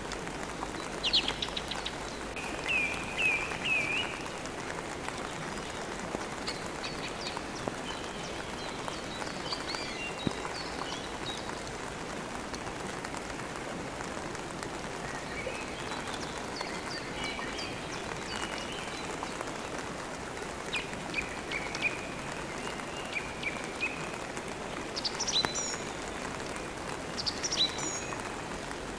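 Steady rain, with songbirds chirping in short repeated phrases every few seconds.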